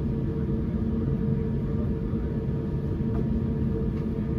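Steady low rumble of an Airbus A350 cabin, with a constant hum that does not change, and a couple of faint clicks.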